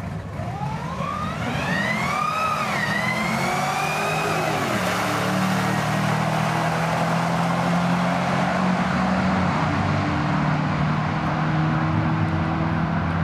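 Two 2009 Cadillac CTS-Vs' supercharged 6.2-litre V8s launching at full throttle on a drag strip: engine pitch climbs, drops at an upshift about two and a half seconds in, climbs again, then gives way to a steady, loud engine and exhaust noise as the cars run down the track.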